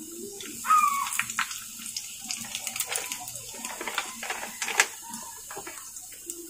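Chicken nuggets frying in hot oil in a pan: a steady sizzle with dense popping crackles. A short high-pitched squeak sounds about a second in.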